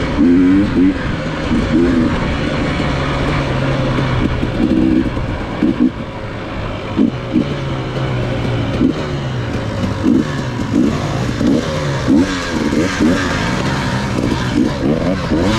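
Dirt bike engine being ridden hard, its pitch rising and falling again and again as the throttle is opened and closed, with short louder bursts through most of the stretch.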